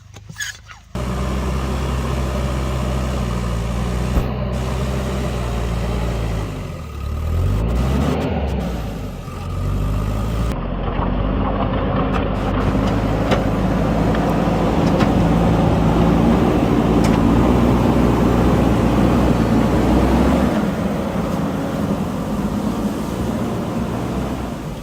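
JCB backhoe loader's diesel engine running. It starts about a second in, dips in pitch and climbs back around eight seconds in, then runs louder and rougher for several seconds before easing off near the end.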